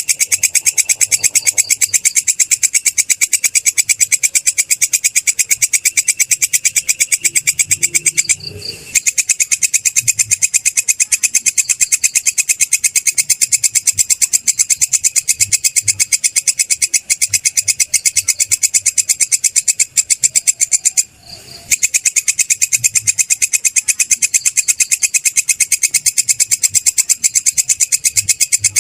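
Belalang kecek (kerik), a grasshopper-like insect, stridulating: a loud, high-pitched, continuous trill of very rapid pulses that breaks off briefly twice, about a third and three quarters of the way through.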